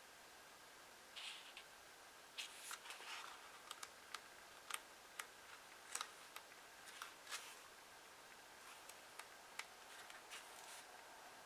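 Faint handling of paper: soft rustles and a scattered run of small crisp ticks and snaps, as pages and paper are touched and moved.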